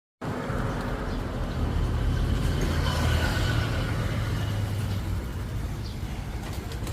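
Steady low rumble of motor traffic, engines running close by, with street noise over it.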